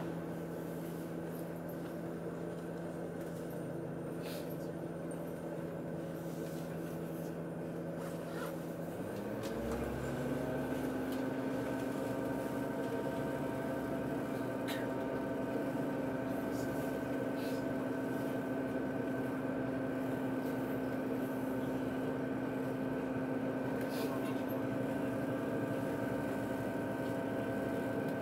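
Steady machinery hum of a train, which rises in pitch about nine seconds in, then holds at the higher note a little louder.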